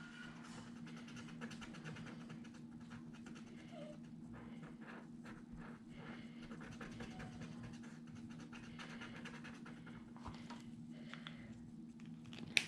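Faint rustling and light close-set ticking over a steady low hum.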